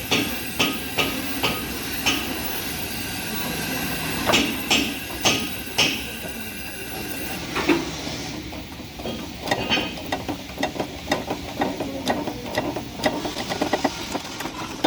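Hammer striking metal in a series of sharp blows, about two a second, pausing briefly before a final run of hard strikes. After a change partway through, a quicker run of lighter metallic taps follows.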